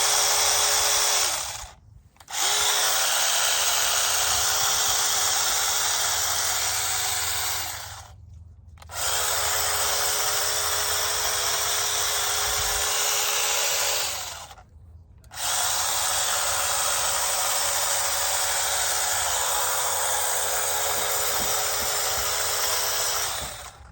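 Battery-powered mini chainsaw's electric motor and chain running at a steady whine, started and stopped with the trigger: four runs of several seconds each with brief pauses between them.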